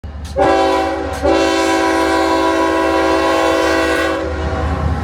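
Locomotive air horn sounding a chord of several notes: a short blast, then a longer one held for about three seconds before fading, over the low rumble of the train.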